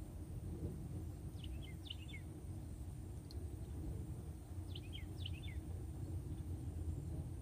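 Outdoor background with a steady low rumble, and a bird calling twice: each call a quick run of short chirps falling in pitch, first about a second and a half in and again about five seconds in.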